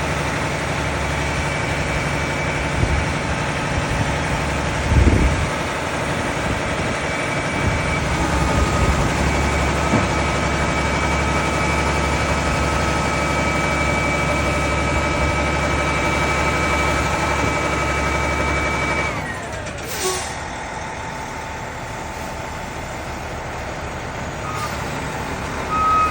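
Roll-off garbage truck running steadily, with a steady high whine held for about ten seconds. Around nineteen seconds in, the whine stops and the engine drops to a lower, quieter run, and a short burst of hiss follows about a second later.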